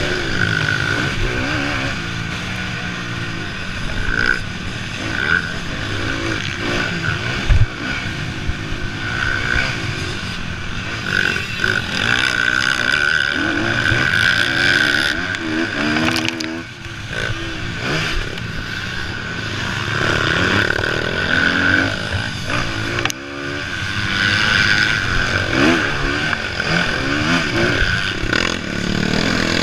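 Motocross bikes racing, their engines revving up and down through the gears as they ride the track.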